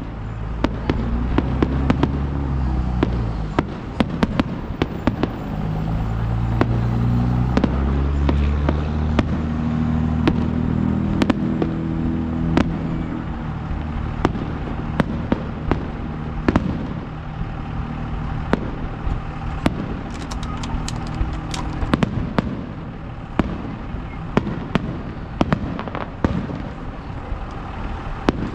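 Aerial fireworks going off in quick, irregular succession: many sharp bangs and crackles over a continuous low rumble.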